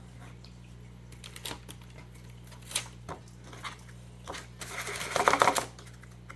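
Light clicks and taps of kitchen handling while sugaring and arranging cookie dough, with a quick run of rattling clicks about five seconds in, over a low steady hum.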